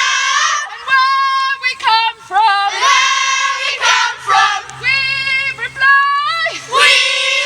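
A group of children singing a song together, with high, held notes broken by short pauses.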